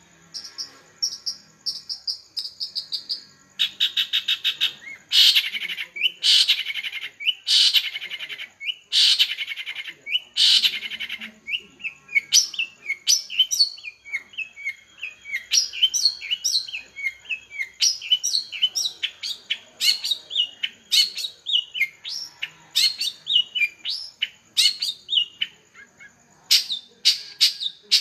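Long-tailed shrike (cendet) singing: a quick run of high thin notes, then loud harsh rasping calls about once a second, then a fast jumble of varied chirping notes, with the harsh calls returning near the end.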